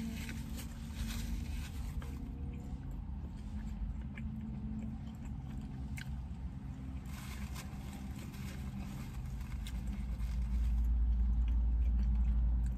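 A person biting into and chewing a soft chicken tortilla wrap, with a few small mouth clicks, over a steady low rumble that gets louder for the last two seconds.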